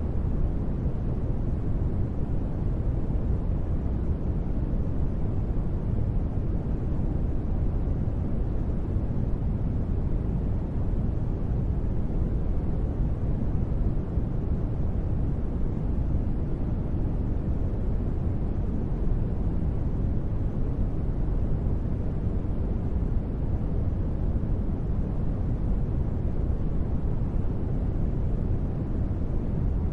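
Steady, unchanging noise ambience: a deep, even rumble, strongest in the bass, with only a soft hiss above it.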